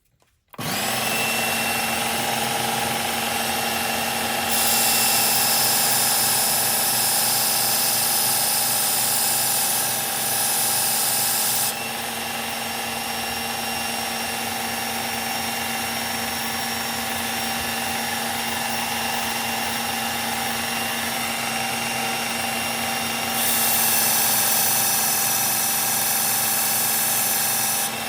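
Electric knife sharpener starting up about half a second in and running steadily. A louder, hissier grinding comes twice as the steel blade of a Gerber Propel Downrange knife is drawn across the abrasive: a long pass about four seconds in and another near the end.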